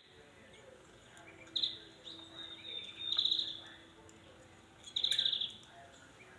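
Small bird chirping, with three loud rapid trills about one and a half, three and five seconds in.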